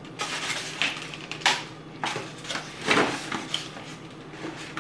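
Close-up chewing of pineapple chunks: a series of irregular, noisy mouth sounds.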